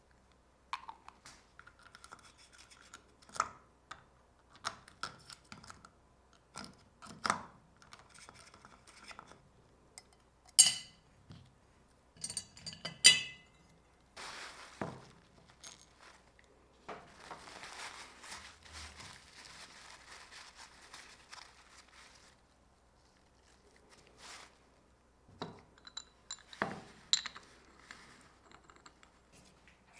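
Small metal parts and tools being handled on a workbench: scattered clinks and knocks, two sharp ringing clinks around the middle, and a stretch of steady scraping or rubbing.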